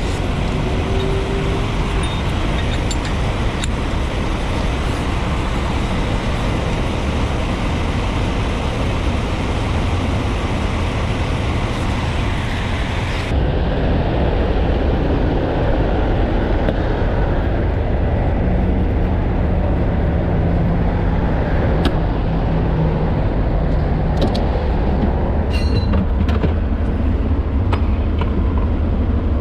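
Steady loud rumble of heavy vehicles and freeway traffic. Noise is strongest in the low range, and the sound changes abruptly about halfway through, when the upper hiss drops away.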